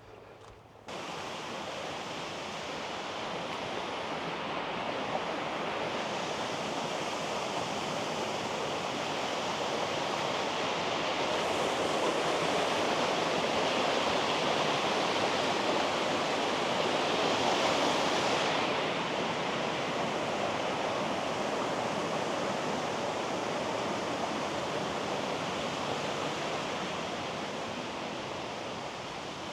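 Steady rushing of running water that cuts in abruptly about a second in, swells in the middle and then eases slightly.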